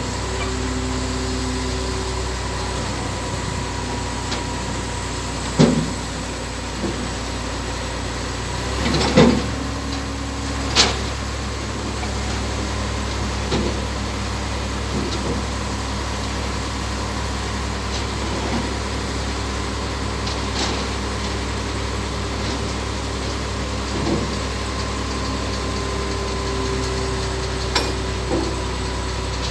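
Heavy diesel engine idling steadily, with several short sharp knocks and clanks over it; the engine note shifts slightly about a third of the way through.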